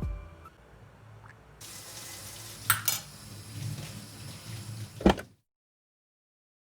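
Water running from a tap into a sink, a steady hiss with a few sharp knocks, then cut off abruptly about five seconds in.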